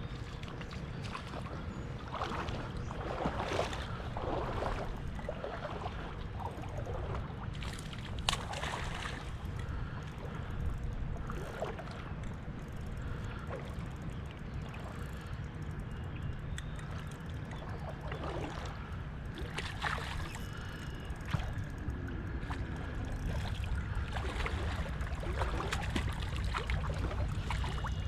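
Water splashing and sloshing against a kayak in irregular bursts, over a steady low rumble.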